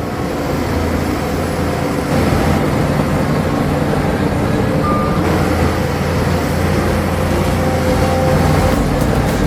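Heavy diesel machinery running steadily, with a short high beep about five seconds in and a few clicks near the end.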